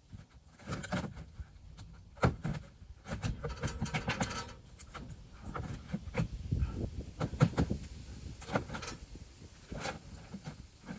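Irregular knocks, thumps and short scrapes from work on the wooden grain box, with no power saw running.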